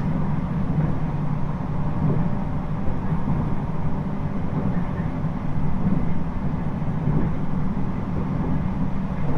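Interior running noise of a JR East 719 series electric train, the set known for its unusual jet-like noise, as it travels along the line. It is a steady, even rumble of wheels on rail and drive equipment, with no change in speed audible.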